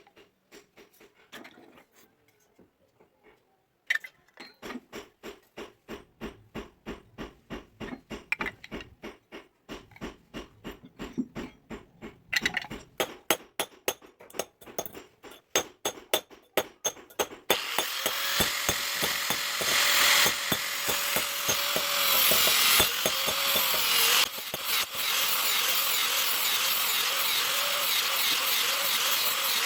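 Work on a hand-forged sickle blade: rapid regular strokes of a hand tool, about four a second, then a power tool starts about two thirds of the way in and runs steadily with a constant whine.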